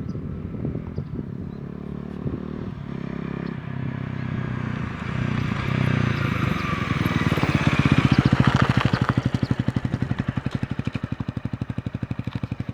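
Honda Rebel 250's single-cylinder engine running through an aftermarket slip-on muffler as the bike rides past. It grows louder to a peak about eight seconds in, then the even exhaust beat fades as it moves away.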